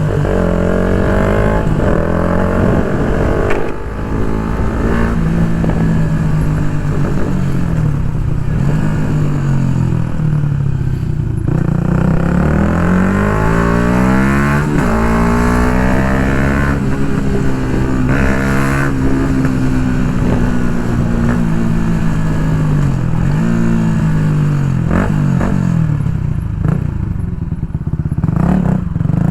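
Yamaha MT-125's 125 cc single-cylinder four-stroke engine through an Akrapovic full exhaust system, ridden hard. Its pitch climbs repeatedly as it accelerates, drops at each gear change, and falls away in long slow sweeps when the throttle is rolled off.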